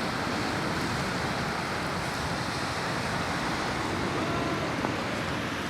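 Steady wash of rough lake waves and wind, with no clear breaks or surges.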